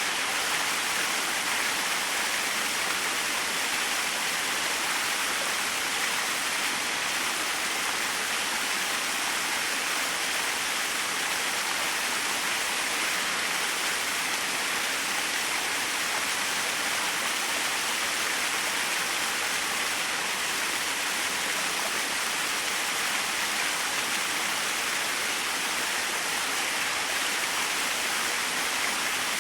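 Small waterfall splashing steadily: an even, unbroken rush of falling water, brightest in the hiss of the spray.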